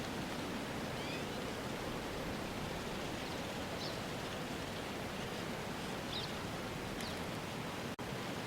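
Steady rushing outdoor ambience with a few faint high chirps over it. It briefly cuts out for a split second near the end.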